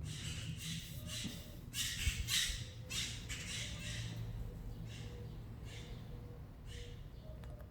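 Birds making a string of short, harsh rasping sounds at an uneven pace, most of them in the first half.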